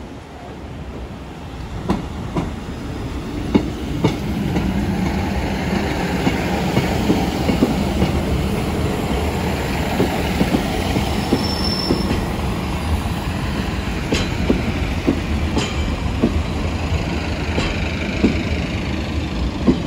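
Diesel passenger train passing close by. It grows louder over the first few seconds, then runs on as a steady rumble with wheels clicking over rail joints, and a brief high wheel squeal near the middle.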